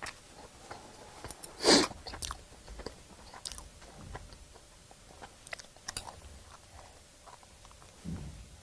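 Close-miked eating of rice with salted pollock roe: chewing, with small mouth clicks and smacks scattered throughout. One much louder, sharp, short sound comes a little under two seconds in.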